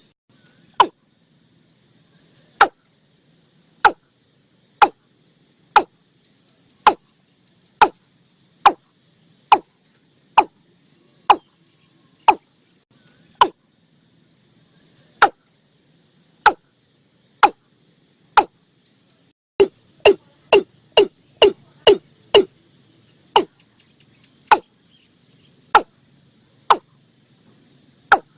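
Watercock (nok tum) calling: a long series of short, sharp notes, mostly about one a second, quickening into a fast run about twenty seconds in. A steady hum of insects lies beneath.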